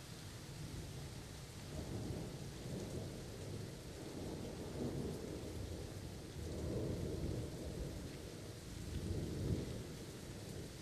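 Steady rain falling during a thunderstorm, with thunder rumbling low in repeated rolling swells that rise and fade every couple of seconds.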